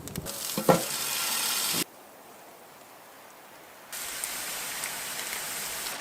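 Food sizzling in a hot pan, with a clatter about a second in. The sizzle cuts off abruptly for about two seconds in the middle, then comes back.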